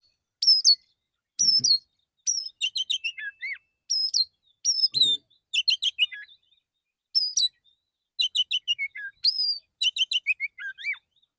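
Male Oriental magpie-robin (kacer) singing its relaxed song: short phrases of sharp whistled chirps and slurred notes, separated by brief pauses, stopping shortly before the end.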